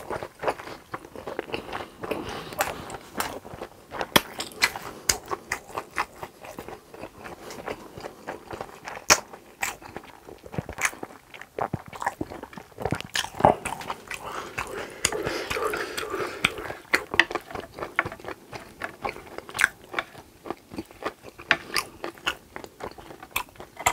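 Close-miked chewing of a mouthful of grilled pork intestines (gopchang): many irregular, wet clicks and smacks.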